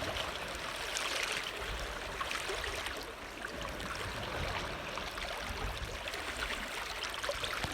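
Seawater lapping and trickling, a steady wash with faint small splashes.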